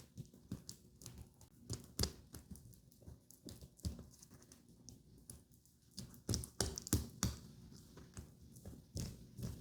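Irregular soft taps and clicks of makeup tools and product containers being handled, with a busier run of louder taps about six to seven seconds in.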